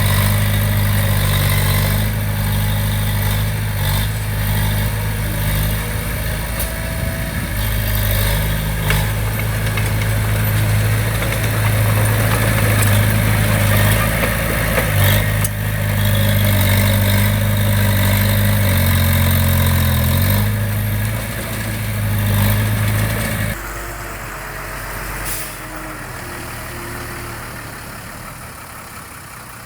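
Heavy diesel engine of construction machinery running at a steady speed, with a brief dip and rise in pitch about twenty seconds in. A few seconds later the loud engine sound drops away suddenly, and the remaining engine noise fades.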